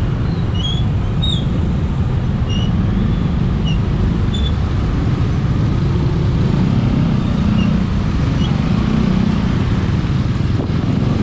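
Steady on-bike riding noise from a motorcycle in heavy traffic: a dense low rumble of wind on the GoPro's microphone, the engine and surrounding road traffic, with a few short high chirps scattered through.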